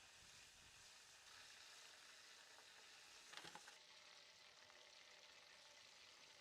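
Food sizzling quietly as it fries in hot oil, a steady crackling hiss. A short burst of louder crackle and clatter comes a little past halfway.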